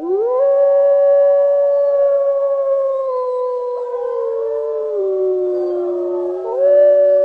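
Several animals howling together in long, overlapping held howls; one voice slides down in pitch about five seconds in and another joins higher near the end.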